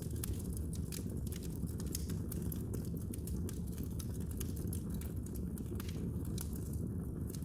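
Wood fire crackling in a fireplace: frequent small irregular pops and snaps over a steady low rumble.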